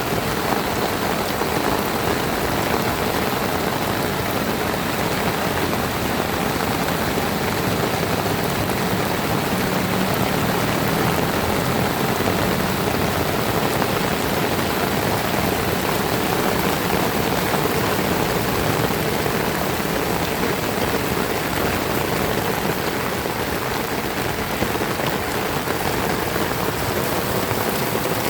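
Heavy rain falling steadily, an even dense hiss with no letup.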